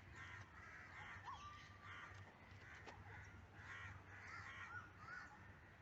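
Faint birds calling: a string of short harsh calls, about two a second, with a few thin whistled notes among them.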